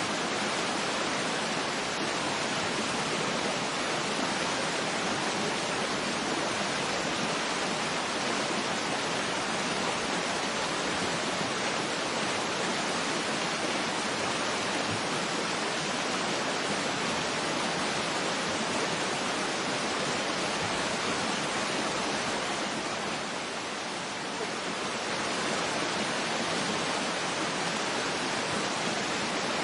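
Steady, even rush of a waterfall, continuous ambient water noise with no other events. It dips briefly in level about three-quarters of the way through, then returns to the same rush.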